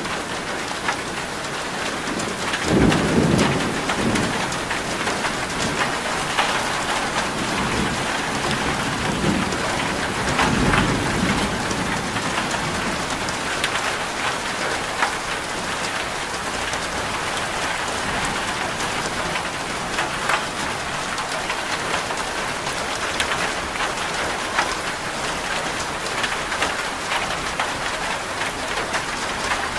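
Steady heavy rain pattering, with low rumbles of thunder swelling about three seconds in and again around eleven seconds.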